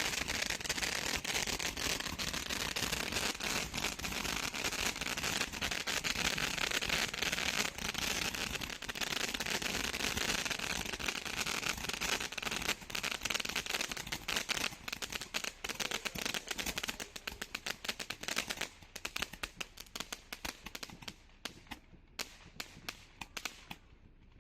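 Gatling firework, a rapid-fire multi-tube cake, firing a dense, fast stream of shots with crackle. Over the last few seconds it thins to scattered single pops as the tubes burn out.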